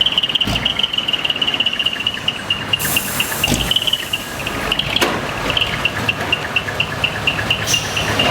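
Dump truck's split-manifold (mani-wari) exhaust with a combined TX/TD muffler, idling and chirping: a high note held steady for a few seconds, then breaking into rapid pips about four a second. A short burst of air hiss comes about three seconds in.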